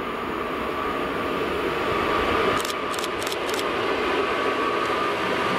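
An EP07 electric locomotive hauling an Intercity passenger train approaches over the rail bridge: a steady rumble of wheels on the rails grows slowly louder. A quick run of four sharp clicks comes about halfway through.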